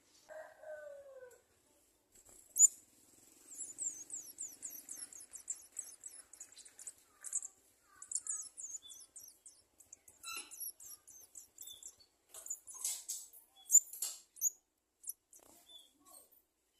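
Garden sunbird nestlings begging with rapid, very high-pitched chirps, excited by the mother bringing food. Before the chirping, a short falling whine at the start and a sharp click come through; another sharp click comes near the end.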